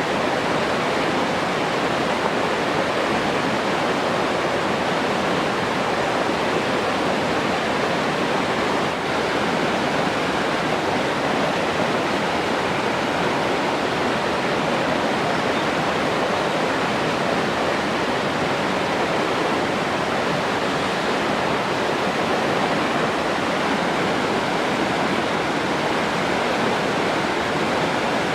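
Flowing water rushing steadily, an even unbroken hiss with no changes.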